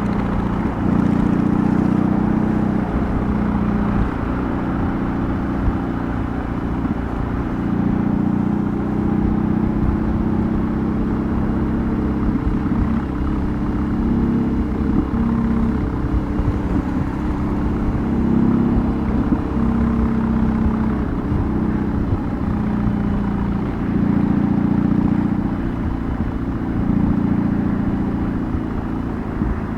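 BMW R18's 1802 cc boxer-twin engine and exhaust running under way, heard from the rider's position. The engine note rises and falls in pitch several times as the throttle and gears change.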